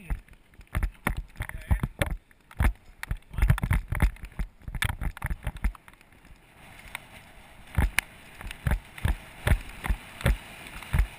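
Bicycle descending a rough road in the rain, heard through a bike-mounted action camera: irregular knocks and rattles as the bike jolts over bumps. About six seconds in, a steady hiss joins.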